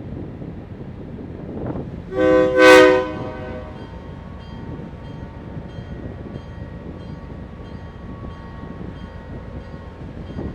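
Diesel locomotive air horn sounding one short blast about two seconds in, over the steady low rumble of the train, as the train departs.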